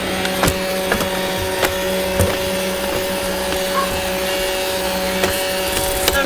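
Roomba robot vacuum running, heard up close from on top of it: a steady motor hum with a whine, broken by a few sharp knocks and rattles as it drives.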